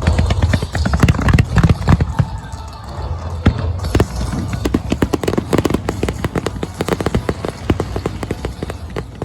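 Fireworks going off in rapid succession: a run of deep bangs over the first few seconds, then dense crackling from about four seconds in.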